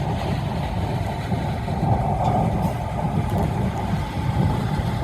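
Steady low rumble of a vehicle's engine and road noise heard from inside the cabin.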